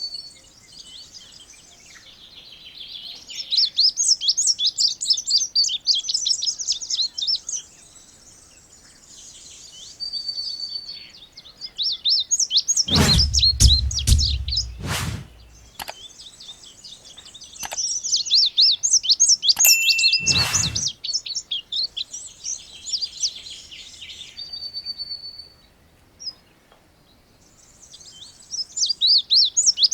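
Indigo bunting singing: bouts of quick, high, repeated song phrases, pausing between bouts. About halfway through, a few loud low thumps break in.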